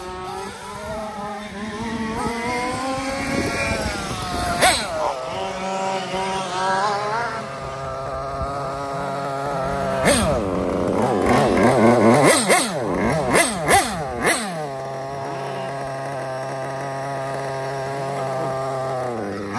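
Nova X5B nitro engine in a Kyosho MP10 1/8 buggy, with an EFRA 2182 tuned pipe, running on its first start: its pitch rises and falls as the throttle is worked, with several sharp cracks in the middle, then it settles to a steady idle about fifteen seconds in.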